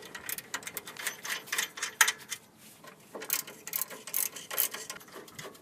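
Hand ratchet with a 17 mm socket clicking in quick runs as it spins out the rear caliper bracket bolts, with a short pause about halfway through.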